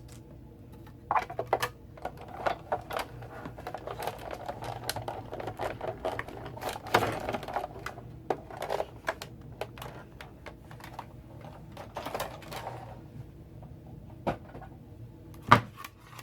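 Irregular clicks and taps with light paper rustling from hands working with die-cut paper pieces and craft tools on a table, ending with one sharper tap near the end. A faint steady low hum runs underneath.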